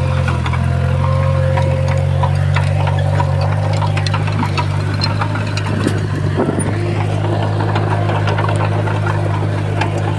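Heavy diesel engine of earthmoving machinery running steadily, with scattered metallic clicks and clanks over it.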